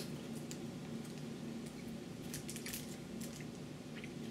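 Someone chewing a bite of a soft chocolate-covered stick snack, with faint scattered mouth clicks, over a faint steady low hum.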